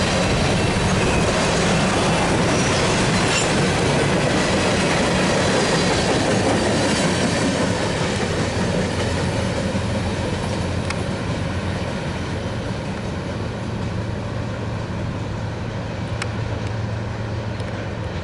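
Freight train cars rolling past, wheels clacking steadily over the rails; the noise eases off after about eight seconds.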